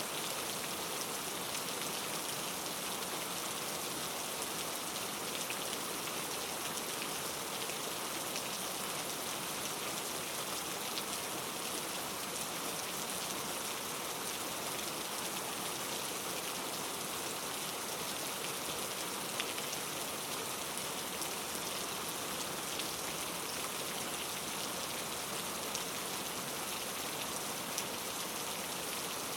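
Steady rain falling and pattering on a surface, an even hiss with a few faint separate drop ticks.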